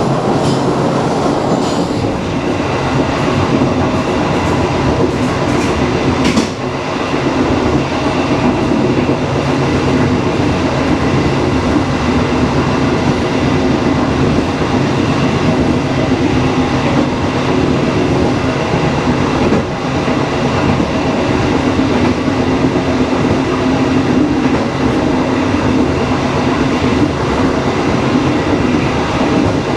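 Passenger train running along the track: a steady rumble and hiss of wheels on rails, with a few sharp clicks in the first six seconds.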